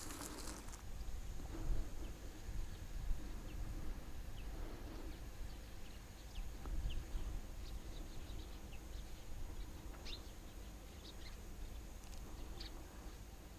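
Faint, scattered bird chirps, short and irregular, over a low steady background rumble; a brief hiss opens the stretch.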